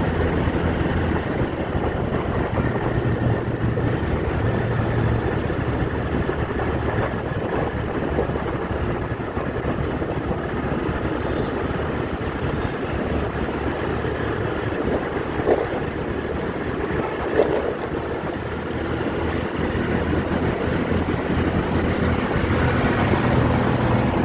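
Steady vehicle engine and road noise, a continuous low rumble, with two short knocks about two seconds apart past the middle.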